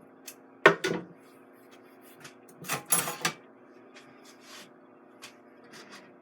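A utensil knocking and scraping against a pan while food is stirred: a sharp clack about two-thirds of a second in, a quick cluster of knocks near three seconds and lighter taps between. A steady low hum runs underneath.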